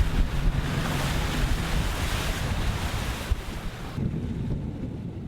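Wind buffeting the microphone over the wash of the sea on a boat at sea: a steady rushing with a heavy low rumble, which dulls about four seconds in and then fades away.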